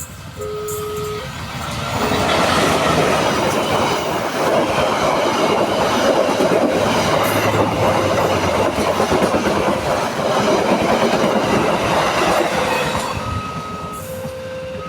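A train passing at speed over a level crossing: the loud rush and clatter of wheels on rails builds about two seconds in, holds for about ten seconds, then fades. Short alternating electronic warning tones from the crossing sound near the start and again near the end.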